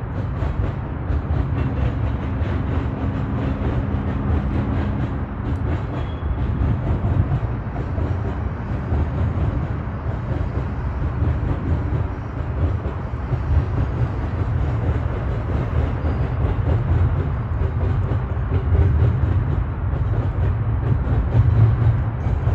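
Double-stack intermodal well cars of a freight train rolling past: a steady low rumble of steel wheels on rail.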